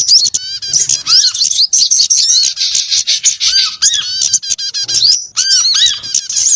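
Bird-lure recording of several small songbirds calling at once: dense, overlapping fast chirps and short arched whistles with no pauses.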